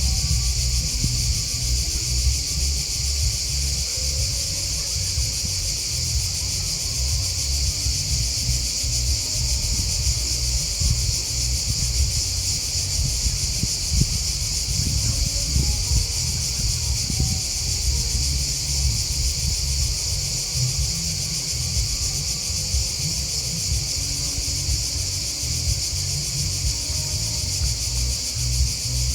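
Chorus of crickets and grasshoppers chirping, a steady high-pitched trill without pause, over a constant low rumble.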